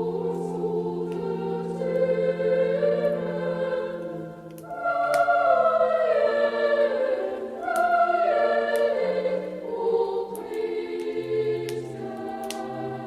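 Background music: a choir singing a slow Christmas song in long held notes.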